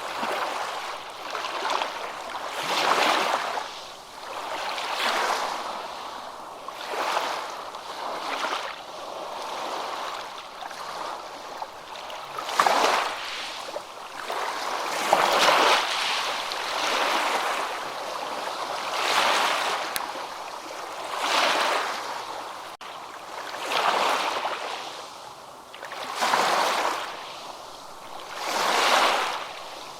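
Ocean surf: waves wash in and draw back, swelling about every two to three seconds.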